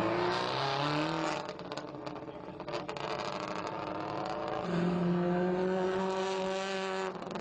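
Rally car engine accelerating hard through the gears: its pitch climbs, drops at a shift about a second in, climbs again and is held high and steady, then cuts off suddenly near the end as the throttle is lifted.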